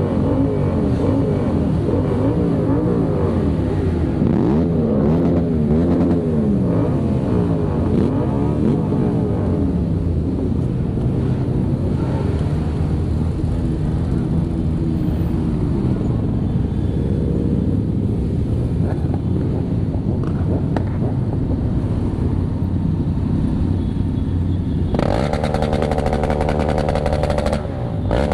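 Many motorcycle engines running together in a large group ride, their pitches gliding up and down as bikes rev and pass. Near the end a louder, higher-pitched sound cuts in for about two and a half seconds.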